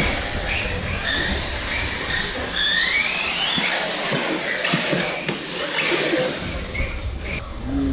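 Electric RC buggies running on a dirt track: the whine of their brushless motors rises in pitch several times as the cars accelerate, the clearest rise about three seconds in, over a steady rushing noise.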